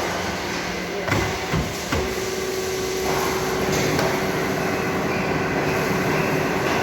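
Automatic muffler-pipe cutting machine: three sharp metallic knocks about a second in, then the machine starts and runs with a steady hum that fills out with a broader running noise.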